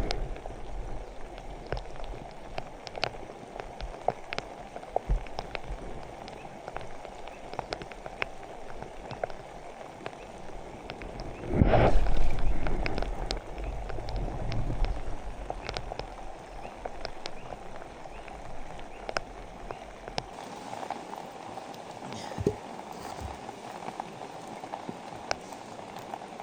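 Steady rain falling, with many scattered drops ticking sharply on nearby surfaces. A louder rush about a second long comes about halfway through.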